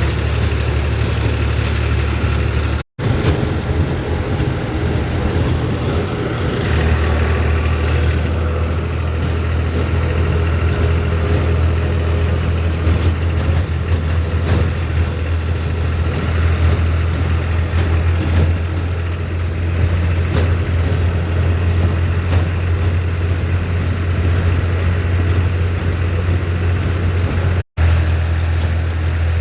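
Tractor engine running with a steady low drone. The sound drops out for an instant twice, about three seconds in and near the end, and the engine note shifts briefly after the first gap before settling again.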